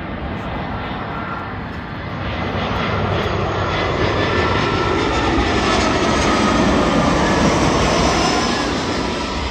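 Jet airliner's engines passing, a rumble and roar that swells to its loudest about six to eight seconds in and eases off near the end, with a thin whine over it.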